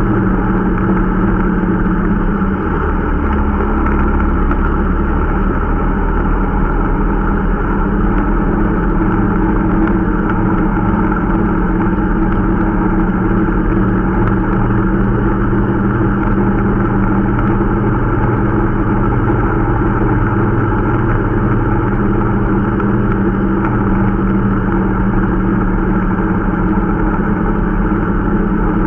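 Irbis Dingo T125 snowmobile's 125 cc single-cylinder four-stroke engine running steadily under way, its note dropping briefly about two seconds in and then holding even. The engine is being run in.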